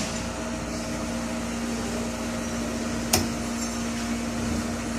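Steady machine hum with a held low tone, and one sharp click about three seconds in.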